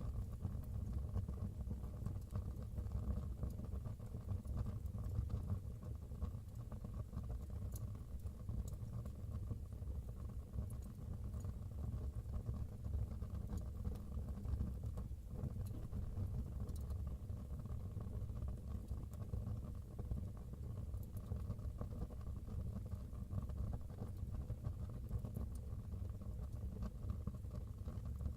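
Wood fire burning in a fireplace: a steady low rumble of flame, with a few faint, scattered crackles.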